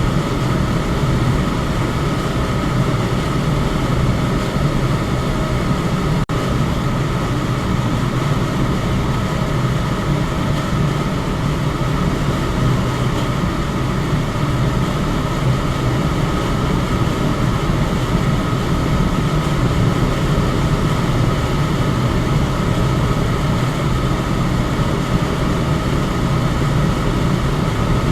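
Electric fan running steadily: an even rush of air with a low hum and a faint steady tone above it, broken by a momentary dropout about six seconds in.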